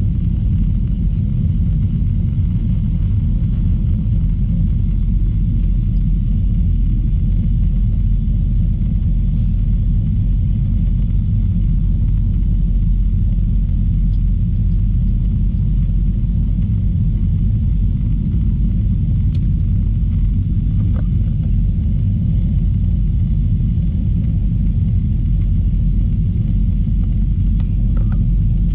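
Steady low rumble of an Airbus A321 airliner heard from inside the passenger cabin, engine and airflow noise holding even throughout, with a few faint ticks.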